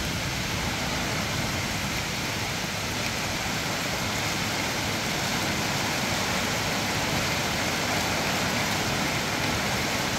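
Heavy thunderstorm rain pouring down steadily, an even unbroken hiss with no let-up.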